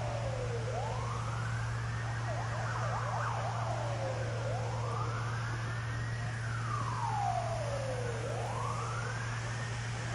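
Emergency vehicle siren in a slow wail. Each cycle rises over about a second and a half and falls away over about two seconds, about three cycles in all, over a steady low hum.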